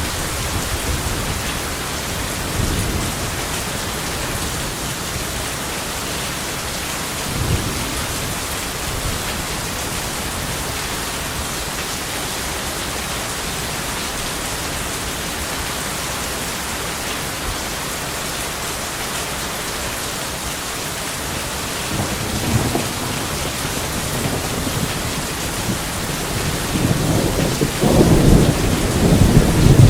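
Steady heavy rain with rolls of thunder. A few brief low rumbles come in the first eight seconds. A louder thunder roll builds from about two-thirds of the way in and is loudest near the end.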